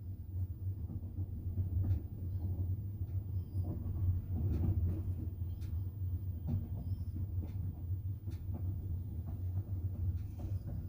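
Double-decker passenger train running, heard from inside the carriage: a steady low rumble with scattered clicks and knocks from the wheels and carriage.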